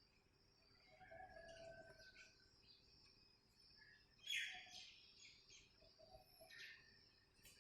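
Near silence with faint, scattered bird chirps, the clearest about four seconds in.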